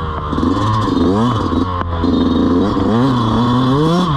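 Dirt bike engine revving up and dropping back about five times as the rider works the throttle on a trail, over a steady low engine hum.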